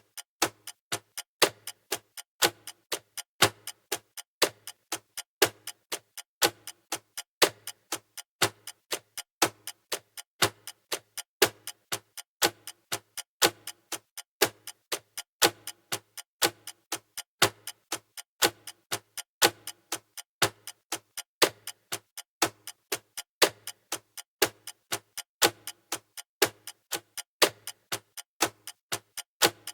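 Clock ticking sound effect of a countdown timer: sharp, evenly spaced ticks that repeat steadily without a pause.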